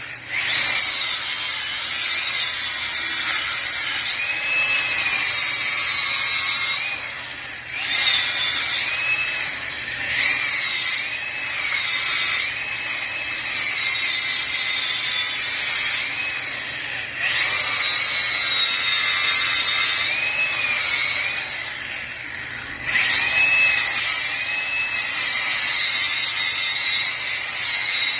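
A hand-held electric power tool running in several spells, its high whine dipping and recovering in pitch as it is pressed into the work, with short pauses between runs.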